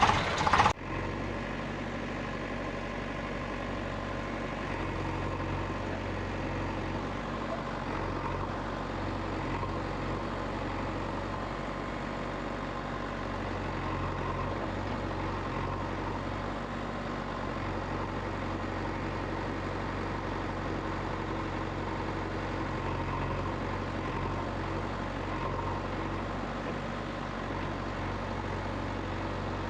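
A steady, even idling engine sound with a low hum. A louder, busier sound cuts off suddenly under a second in.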